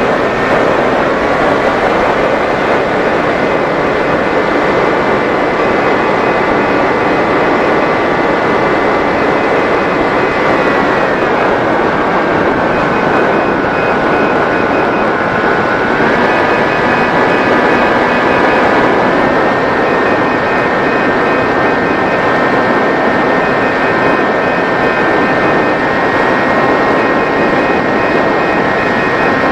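Motor of a 90 cm Mini Drak FPV model plane running with a steady whine over heavy rushing noise. Its pitch falls about eleven seconds in, then steps back up twice, a few seconds apart.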